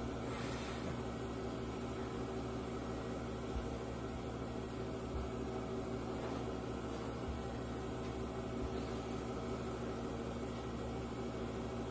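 A steady low hum with an even hiss over it, like a running appliance or fan, with a brief rustle about half a second in.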